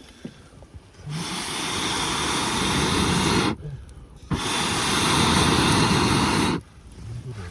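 Butane mini torch firing with a loud hissing jet, in two bursts of a little over two seconds each that start and cut off sharply.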